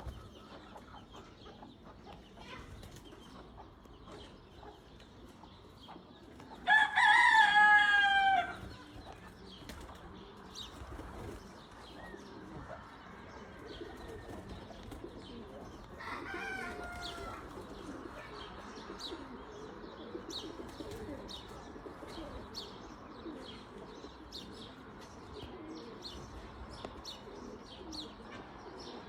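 A rooster crows loudly once, a call of several falling notes, about seven seconds in, and a second crow comes more faintly around sixteen seconds. In the second half short clicks come again and again.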